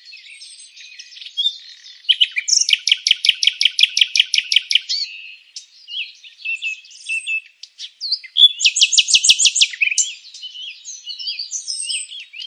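Several songbirds chirping and singing together. A loud, fast trill of repeated notes starts about two and a half seconds in and lasts about two seconds, and a second quick trill comes about eight and a half seconds in.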